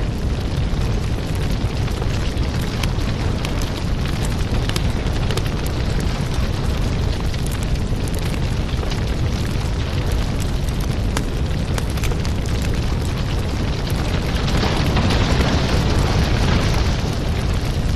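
Wood fire burning, with dense crackling and popping over a steady low rumble; it swells a little louder about fifteen seconds in.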